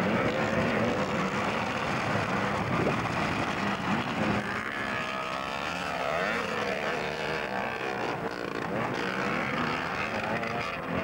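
Vintage 250cc motocross bikes racing, several engines overlapping and revving up and down, their pitch rising and falling as the riders work the throttles.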